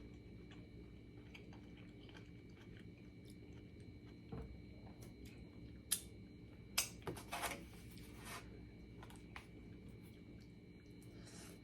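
Quiet chewing and mouth sounds of a person eating, close to the microphone, with a few sharper wet clicks and smacks about six to seven and a half seconds in.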